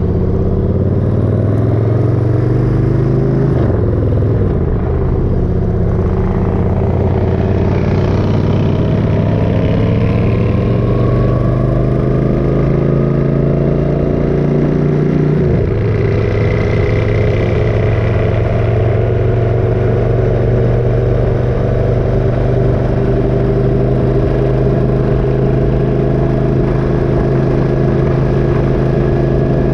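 Motorcycle engine running under way with road and wind noise, pulling steadily through the gears: the engine note climbs, drops at an upshift about three seconds in, climbs again and drops at a second upshift about halfway through.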